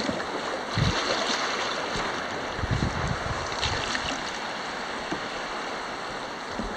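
Steady rush of shallow river rapids around a canoe, with a few dull low thumps.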